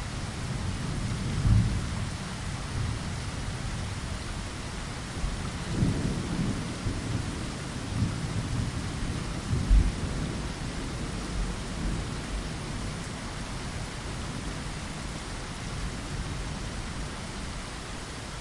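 Steady rain falling against a window, with low rolls of thunder rumbling through the first half. The thunder is loudest about a second and a half in and again about ten seconds in, then fades back to the even hiss of rain.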